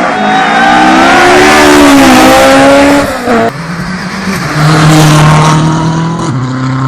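Rally car at full throttle passing close by, its engine pitch rising and bending over loud road and tyre noise. The engine note drops abruptly about three and a half seconds in, then holds lower and steps down again near the end.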